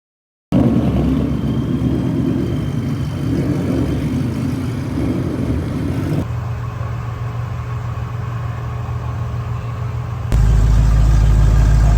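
High-horsepower street car engines in spliced clips: a rough, fluctuating engine note, then about six seconds in a steadier idling note, and from about ten seconds in a louder, deeper idle.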